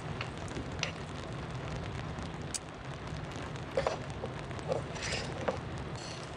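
Steady rain, with a few small knocks and clinks between about four and five and a half seconds in.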